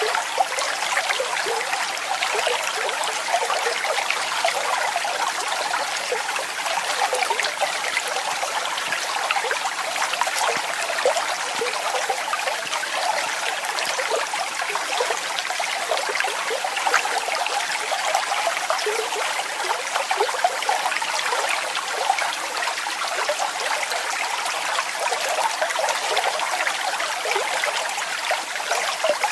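Falling water splashing and trickling steadily, a constant even rush with fine spatters and little deep rumble.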